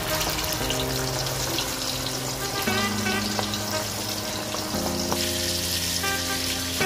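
Chicken pieces frying in hot oil with a steady sizzle. Background music plays under it, with long low notes that change every couple of seconds.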